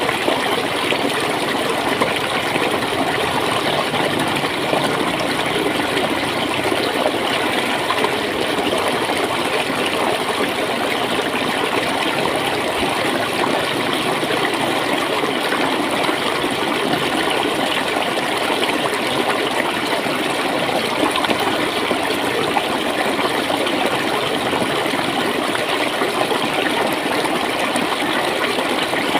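Shallow stream of water flowing and gurgling steadily.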